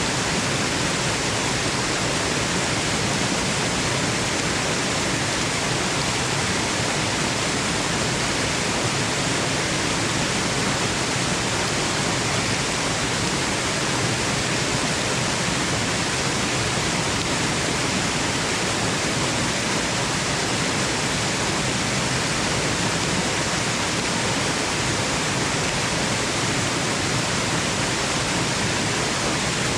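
Steady, unbroken waterfall rushing, an even hiss of falling water with no splashes or changes, used as white noise for sleep.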